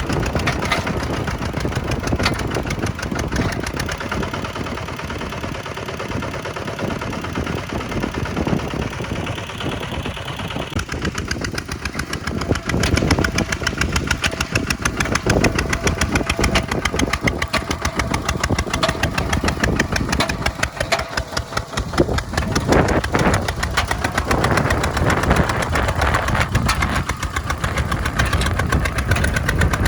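Kubota tractor's diesel engine running steadily, getting louder about twelve seconds in.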